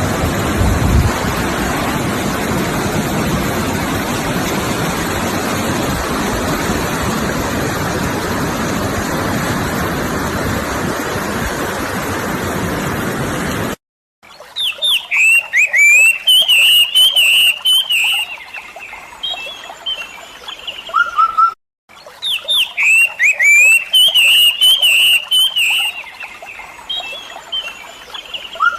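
Steady rushing of sea surf and wind for about the first half, cut off abruptly. A songbird then sings quick chirping, warbling phrases, and the same stretch of song plays twice with a short dropout between.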